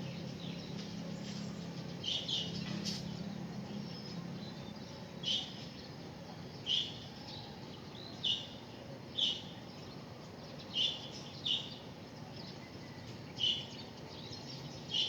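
A small bird chirping, with short, sharp single chirps repeated irregularly every second or two, over a steady background hiss.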